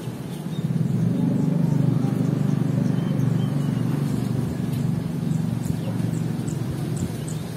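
A low, steady rumble like a passing vehicle's engine swells about a second in and slowly eases, with a few faint bird chirps above it.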